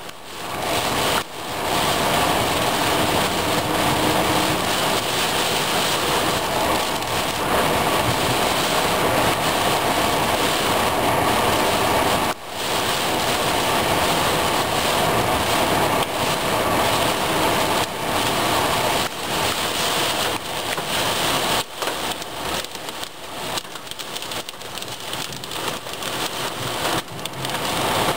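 Heavy rain pouring down in a steady, loud hiss, with a few sudden breaks; in the last few seconds it is choppier and a little quieter.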